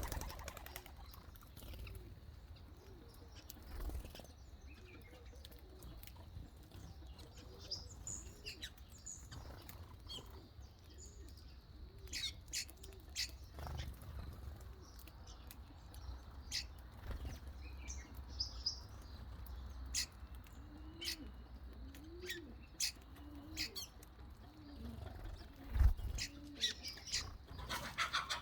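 Birds calling: a run of soft, low, arching coos throughout, with short high chirps and sharp clicks scattered over them and one loud thump near the end.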